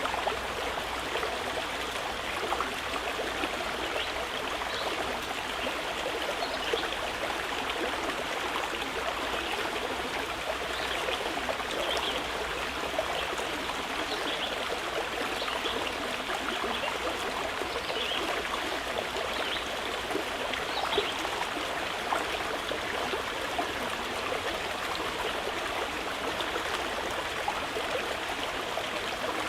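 Mountain river flowing steadily, a continuous rush and babble of water.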